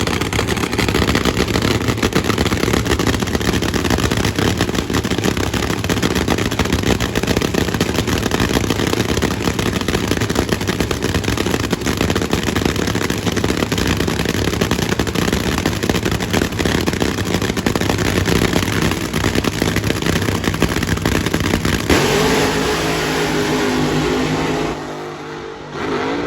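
Drag-racing funny car engine running loud and hard, its exhaust a dense, rapid crackle. About 22 seconds in it changes to a lower rumble, then drops sharply near the end, with one short blip after.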